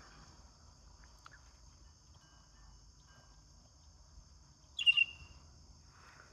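A blue jay yelling once, a short loud call about five seconds in, over a steady high chorus of crickets.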